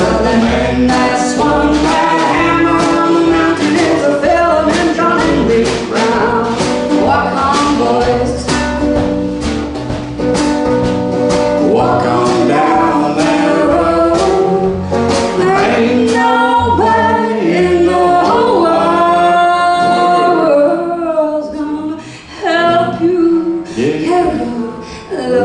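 Live song with singing over strummed guitar; near the end a long note is held, and the music briefly drops away before coming back in.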